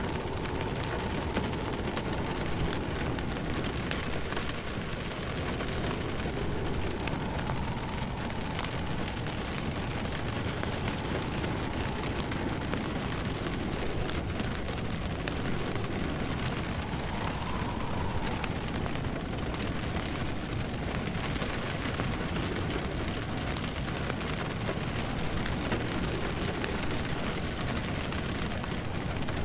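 Steady rain hissing on a surface, layered with a wood fire in a fireplace crackling with many small pops.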